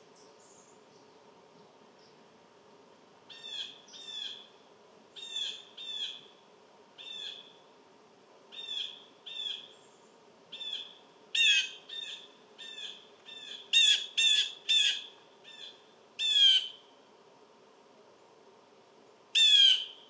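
A bird calling over and over in short, nasal-sounding notes, often in pairs or threes, starting about three seconds in and growing louder toward the end.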